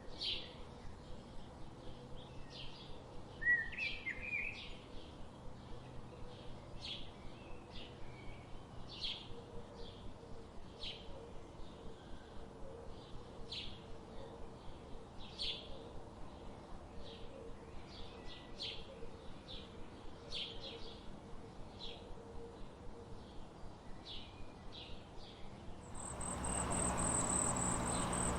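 A bird chirping in a steady, even series of short high notes, about two or three a second, with one louder call about three and a half seconds in. Near the end the sound cuts abruptly to a louder, steady, high-pitched insect trill.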